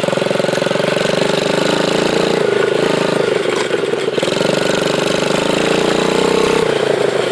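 Dirt bike engine running steadily under way, its pitch dipping and rising slightly with the throttle.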